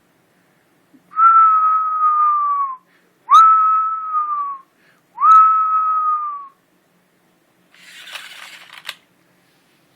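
A person whistling three held notes, each about a second and a half long, with a quick upward slide at the start and a slight sag in pitch at the end. Near the end, a short, quieter burst of rustling noise ending in a click.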